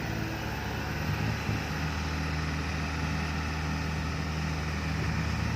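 Loaded six-wheel dump truck's diesel engine running steadily at a constant pitch, hauling clay soil out of a steep pit.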